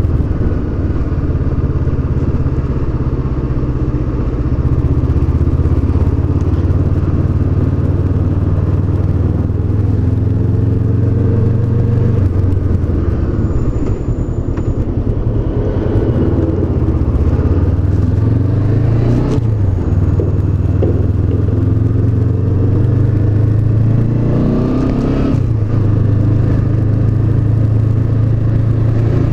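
Honda CB500X's 471 cc parallel-twin engine running under way. It holds a steady note for the first dozen seconds, then drops and picks up again between about 13 and 20 seconds in. It climbs once more about 25 seconds in, as the bike accelerates through the revs.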